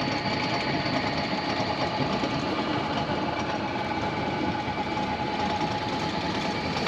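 A sailboat's inboard engine running steadily, a fast even mechanical chatter with a faint steady whine over it.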